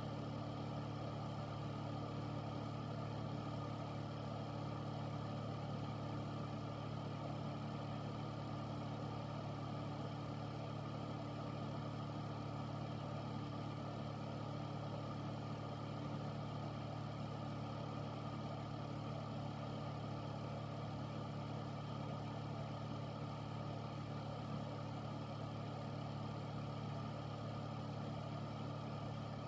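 Air filter fan running steadily: a constant low hum under an even rush of air, with no change in speed.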